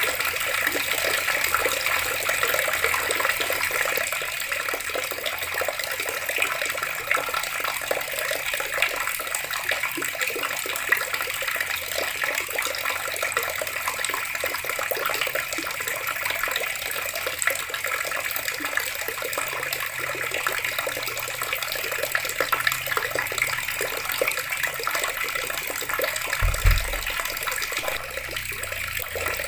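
Water running steadily from a tap and splashing, a constant hiss. A brief low thump comes near the end.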